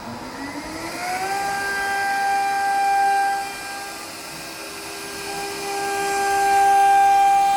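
CNC machining centre spindle spinning up with a rising whine over about a second, then running at a steady high pitch. It swells louder twice, around the middle and near the end.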